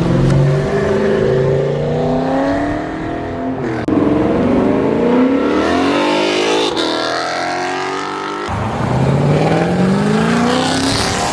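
Cars accelerating hard as they launch away, engines revving with rising pitch. The sound breaks off abruptly twice and starts again with another rising engine, as if from one car to the next.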